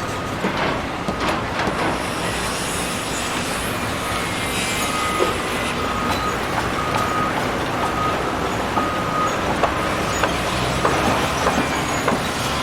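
Heavy demolition machinery tearing into a building: a steady din of machine noise and crunching debris, broken by scattered sharp metallic knocks and a short high-pitched squeal that comes again and again.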